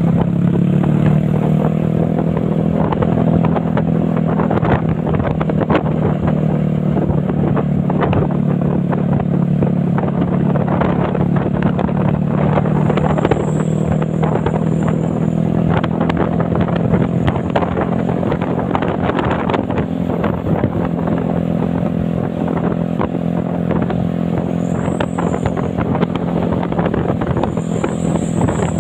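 Truck engine running steadily, a constant low drone with many short clicks over it.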